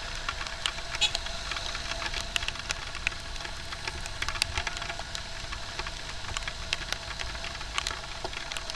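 Riding a motorcycle in traffic in the rain: steady road and engine noise with many sharp ticks scattered throughout, typical of raindrops striking the camera.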